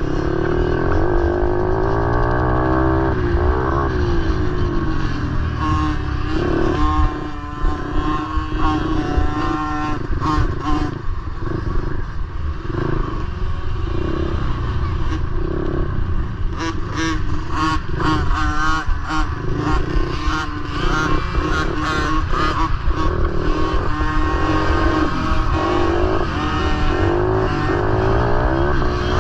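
Motorcycle engines running and revving, their pitch rising and falling repeatedly.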